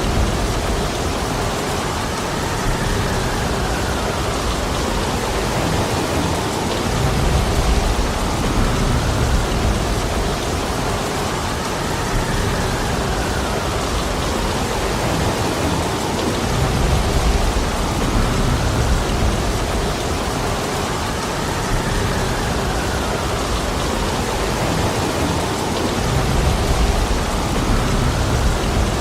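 Heavy rain falling steadily, with a low rumble that swells and fades about every nine seconds.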